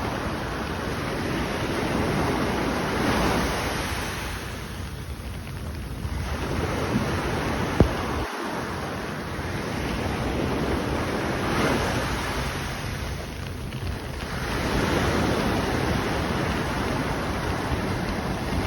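Sea surf breaking on a beach, the wash swelling and ebbing every few seconds, with wind buffeting the microphone. A single sharp click about eight seconds in.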